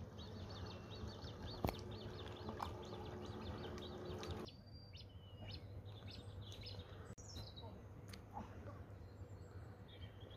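Faint outdoor birdsong: a fast run of repeated high chirps, then, after an abrupt change about four and a half seconds in, scattered separate calls and whistles.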